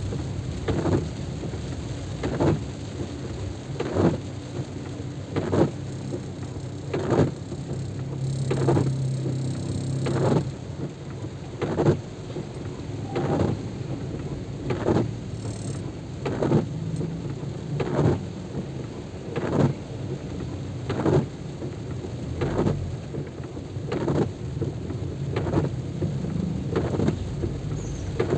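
Heavy rain, with a regular stroke about every second and a half.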